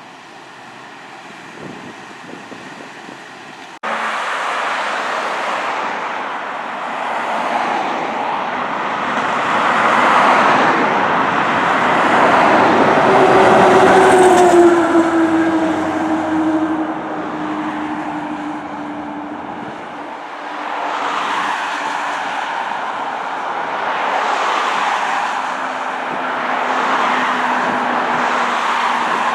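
Fire apparatus driving past on a response: engine and road noise build to a peak about halfway, then ease off. A low tone slides slowly downward through the second half.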